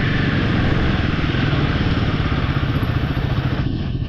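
Royal Enfield motorcycle engine running steadily while riding, its rapid exhaust pulses under a constant rush of wind and road noise.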